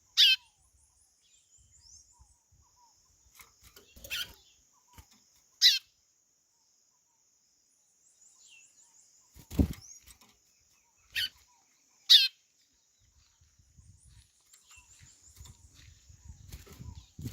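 White-bellied seedeater (chorão) giving about five sharp, descending whistled calls, spaced a few seconds apart, over a steady high-pitched drone with faint twittering. A dull thump about ten seconds in.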